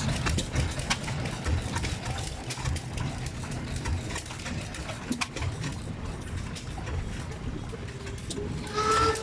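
Low, steady rumble of engines running in the background, with a few light clicks. About a second before the end, a steam whistle starts sounding one steady, two-toned note.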